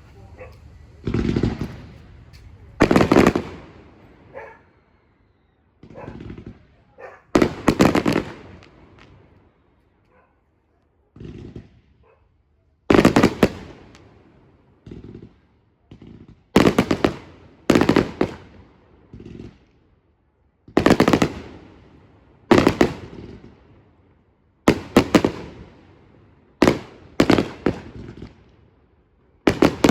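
Fireworks display: a run of loud aerial firework bursts, a sharp bang every second or two, each trailing off in an echo.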